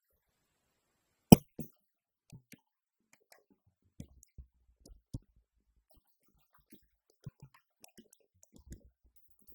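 Sparse, irregular drum hits from a Roland TD-50X electronic drum kit played through downloaded sample kits. One loud hit comes about a second in, followed by softer scattered strokes with gaps of silence between them.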